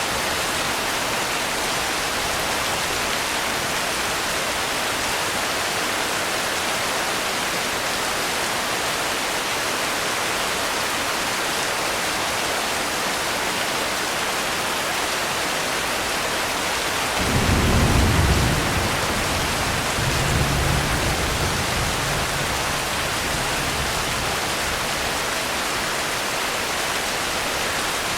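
Steady rain falling. A low rumble of thunder swells about two-thirds of the way through, with a weaker second roll a few seconds later.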